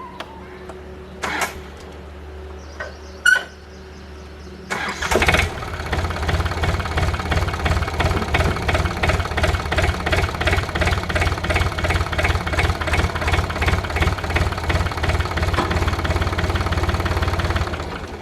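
Small tractor engine started about five seconds in, running with an even pulsing beat for about thirteen seconds, then shut off near the end. A couple of sharp knocks come before it starts.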